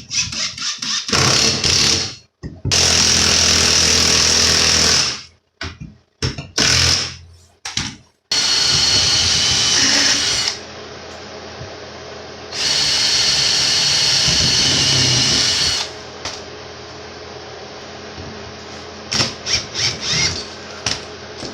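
Power drill run in a series of bursts of a few seconds each, driving lag screws into a wall stud, with short clicks and knocks near the end.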